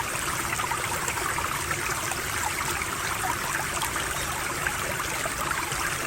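Running stream water trickling steadily.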